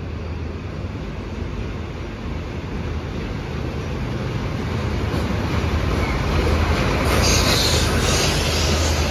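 Yellow diesel track-maintenance locomotive hauling loaded ballast hopper wagons, approaching and passing with a steady low engine rumble that grows louder. About seven seconds in, a brief high squeal and hiss comes from the wheels on the rails.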